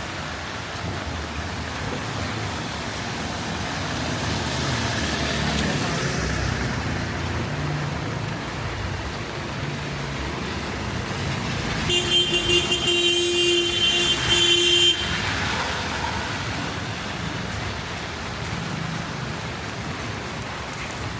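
Road traffic passing on a rain-wet city street, with a vehicle horn sounding about halfway through: a few quick toots, then one held blast of about two seconds.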